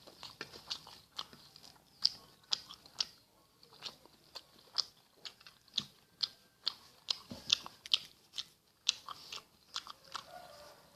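Close-miked chewing of rice with green chili sambal and omelette: wet mouth smacks and clicks, irregular, a few a second.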